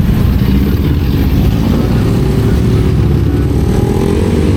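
Kawasaki Z400's parallel-twin engine running under way, its pitch rising over the last second and a half as the bike accelerates.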